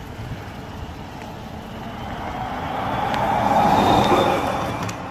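A vehicle driving past: road and tyre noise swells to a peak about four seconds in, then falls away.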